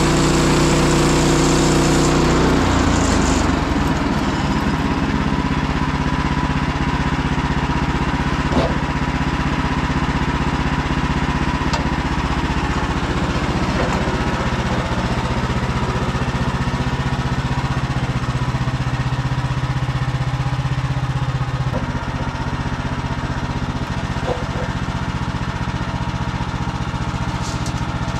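Woodland Mills HM130MAX portable sawmill's gas engine running steadily while the band blade saws through a log. The engine note changes about two and a half seconds in, and the sound drops a little around twenty-two seconds in.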